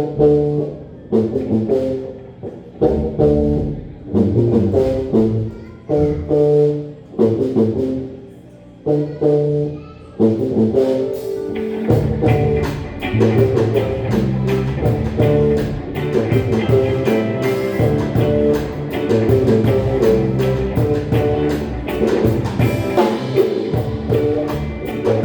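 Live band of keyboard, electric guitar, bass and drum kit playing a tune: it opens with a series of short, punchy chord hits separated by pauses, then the full band comes in and plays continuously from about halfway through.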